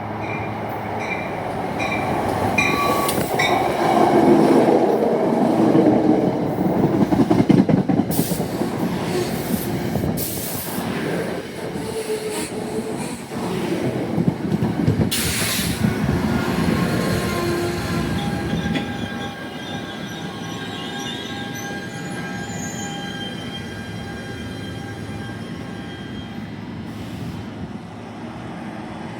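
Passenger train running on the rails: regular wheel clicks at first, a loud rumble a few seconds in, then a steady high-pitched wheel squeal in the second half as the noise eases off.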